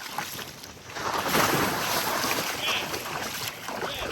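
A small wave breaking and washing up the sand: the wash swells in about a second in and eases off near the end.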